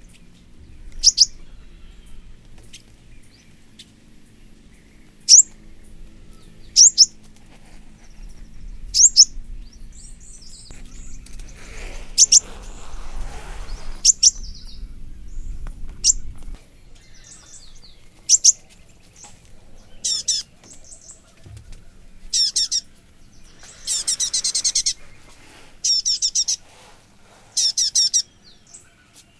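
Birds chirping: sharp, high, down-sweeping chirps every second or two, turning to rapid trilled phrases in the second half. Under them runs a low steady hum that stops about halfway through.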